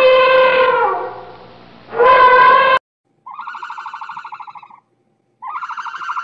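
Elephant trumpeting: a loud, brassy call that falls away in pitch about a second in, then a short second blast that cuts off abruptly just under three seconds in. After that comes a different rapidly pulsing call held at one pitch, heard twice, each about a second and a half long.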